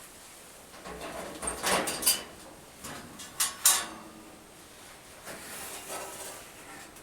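A disposable furnace filter being handled in the furnace's filter slot: scraping and rustling with several sharp knocks. The loudest pair of knocks comes about three and a half seconds in, and softer rustling follows near the end.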